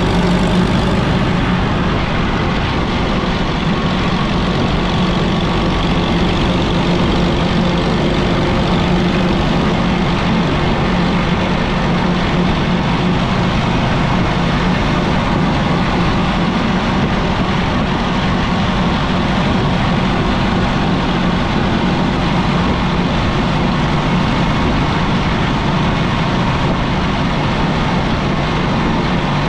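Minneapolis Moline ZB tractor's four-cylinder engine running steadily and loudly while the tractor is driven.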